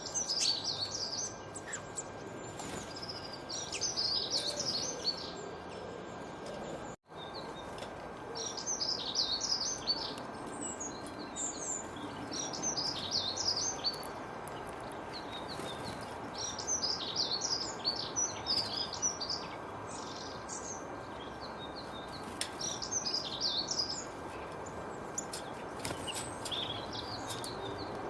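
Songbirds chirping and twittering in repeated bursts of quick high notes over a steady background hiss. The sound cuts out briefly about seven seconds in.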